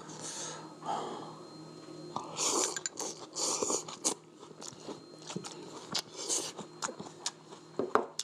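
A person chewing and biting food close to the microphone, with many small crunches and clicks and a few longer breathy mouth sounds.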